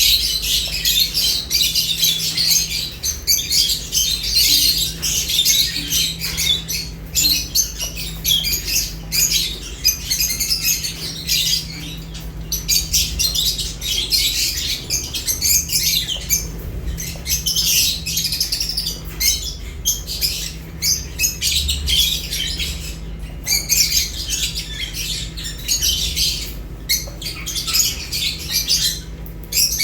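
Lovebirds chirping and squawking, a dense, rapid high-pitched chatter with a few short pauses.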